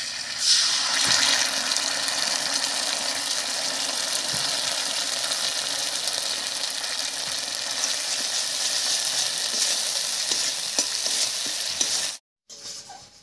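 Mustard oil sizzling steadily in a kadai as a ground mustard, poppy seed and green chilli paste is fried on top of browned onions and stirred with a spatula. The sizzle stops abruptly near the end.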